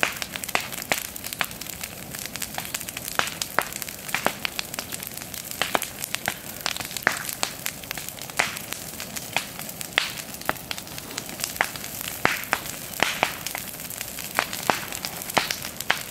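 Bonfire of dry brush and garden waste burning with a steady hiss and frequent sharp, irregular snaps and pops. The snapping comes from hollow stems of Sakhalin knotweed bursting in the heat.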